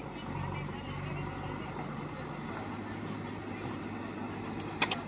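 JCB backhoe loader's diesel engine running steadily under a constant high-pitched buzz. Two sharp clicks sound near the end.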